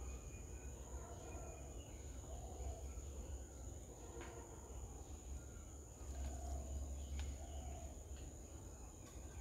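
Outdoor garden ambience: a steady high insect drone with scattered short, faint bird chirps and a low rumble.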